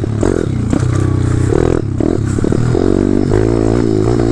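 Pit bike's 190 cc single-cylinder four-stroke engine running while being ridden, its pitch rising and falling as the throttle opens and closes.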